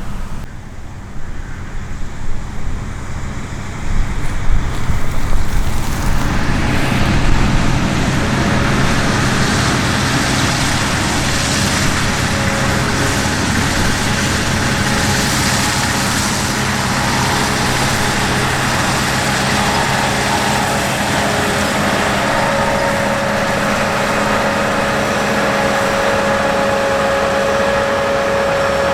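Heavy diesel harvest machinery running: a steady engine hum with a hiss of working machinery over it. It grows loud about five seconds in and then holds steady, with a whine that strengthens near the end.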